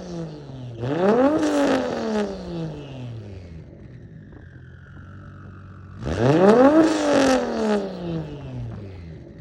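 Turbocharged 1.5JZ straight-six through a 4-inch straight-pipe exhaust, blipped twice from idle: once about a second in and again about six seconds in. Each rev climbs quickly, then drops back to idle over two to three seconds, with crackles around the peak. A faint high whistle falls slowly in pitch between the revs.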